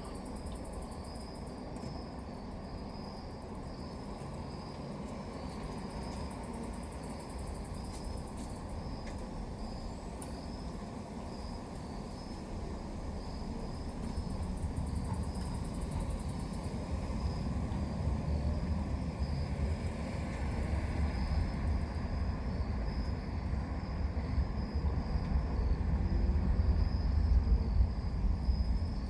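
Crickets chirping steadily in the night, with a low rumble that builds from about halfway through and is loudest near the end.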